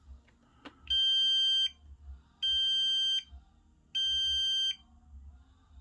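ZOOZEE Z70 robot vacuum beeping three times, with long steady electronic beeps of under a second each about a second and a half apart, as its power and home buttons are held to start it up for Wi-Fi pairing. A short click comes just before the first beep.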